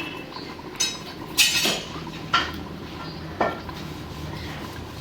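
Metal utensils clinking against a cooking pot or dishes, four sharp clinks with brief ringing in the first three and a half seconds.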